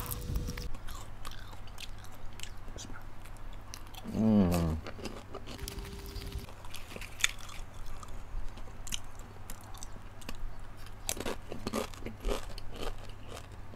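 Close-up chewing of caramel-coated popcorn, with scattered short, crisp crunches. About four seconds in, a brief hum from the eater falls in pitch.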